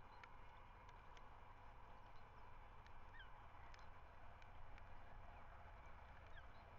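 Faint outdoor ambience from a nest webcam's microphone: a steady low rumble with a couple of short, faint distant bird calls, about three seconds in and again near the end, and a few scattered small clicks.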